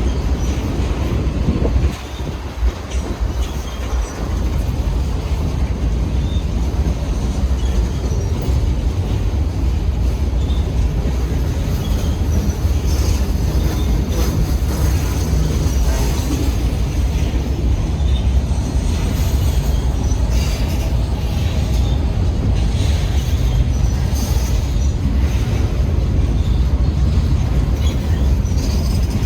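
Freight cars of a long Union Pacific train rolling past at track side. A steady low rumble of wheels on rail runs throughout, with scattered clicks and clanks and some wheel squeal.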